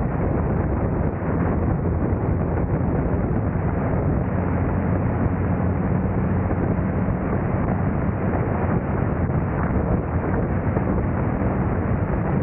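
Audi B5 S4's V6 engine running steadily while driving, a constant low drone under road and wind noise.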